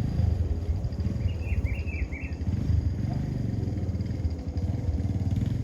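Double-stack container freight train rolling past, its wagons making a steady low rumble and clatter on the rails.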